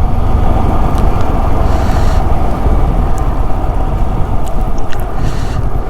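Motorcycle ride heard from the rider's microphone: a steady rush of wind over the mic with the Yamaha R15 V3's single-cylinder engine running underneath.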